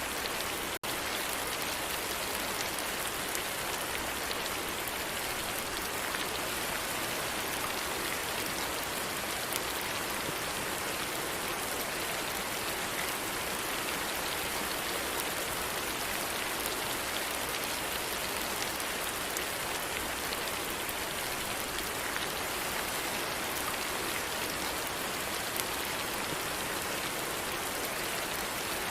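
Steady rain falling: an even hiss of drops with small scattered patters, broken by a split-second dropout about a second in.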